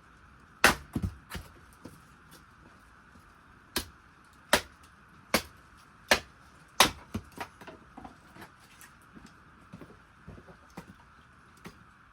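Kindling wood knocking and splintering: a run of sharp, loud cracks in the first seven seconds, then lighter wooden clicks and ticks, over a faint steady hiss.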